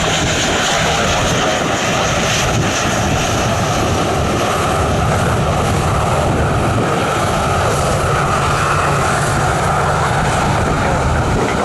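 Jet airliner engines running, a loud, steady rumble with a hiss over it.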